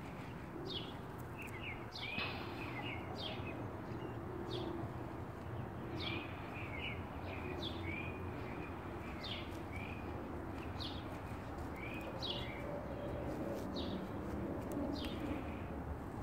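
Small birds chirping: short, high chirps repeating every half second to a second, over a steady low background rumble.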